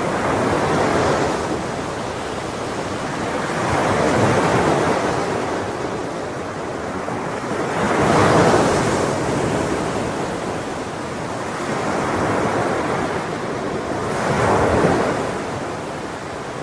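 Sea waves breaking on a shore, the surf swelling and falling back in slow surges about every three to four seconds.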